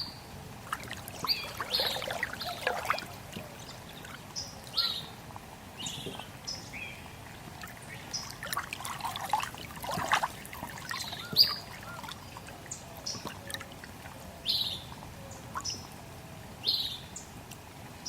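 Small birds chirping, short falling calls every second or two, over water trickling, with two busier stretches of calls and splashing about two and ten seconds in.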